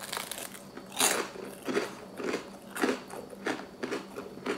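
A person chewing a mouthful of crunchy toasted garlic bread: a string of short crackly crunches, about one and a half a second.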